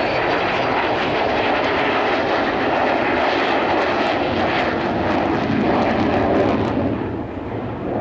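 Avro Vulcan B2 bomber's four Rolls-Royce Olympus jet engines roaring as the aircraft flies past, fading about seven seconds in as it moves away.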